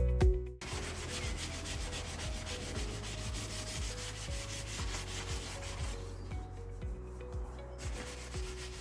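Sandpaper rubbing back and forth over the dried body filler on a truck's steel exhaust heat shield, in quick, uneven strokes. It follows loud background music that cuts off about half a second in.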